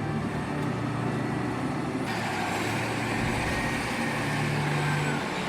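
Heavy vehicle's diesel engine running steadily under load, with the sound changing abruptly about two seconds in.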